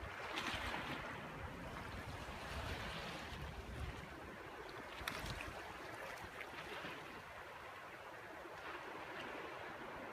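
Ocean surf washing in and drawing back, swelling every two seconds or so, with wind rumbling on the microphone.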